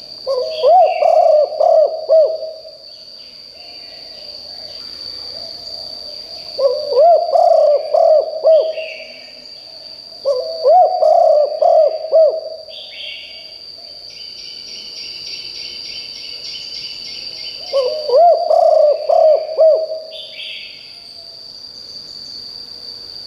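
Spotted dove cooing: four loud phrases, each a run of several hooting coos lasting about two seconds, with pauses of a few seconds between them. Other birds chirp faintly between the phrases over a steady high-pitched whine.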